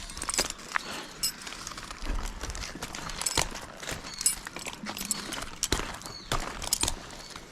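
Irregular knocks and sharp taps, about a dozen scattered through, with no steady motor running.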